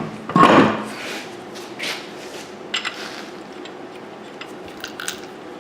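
Metal parts and tools being handled in a workshop: a loud short clatter about half a second in, then a few scattered clinks.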